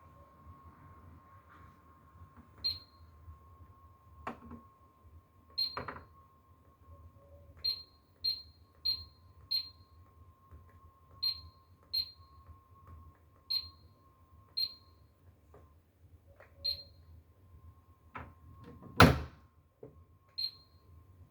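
Miele washing machine control panel beeping: about a dozen short, high beeps at uneven intervals, over a faint steady high tone. A few knocks break in, the loudest near the end.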